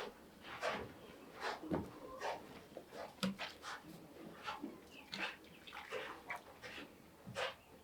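Repeated short scraping strokes, irregular, about one or two a second.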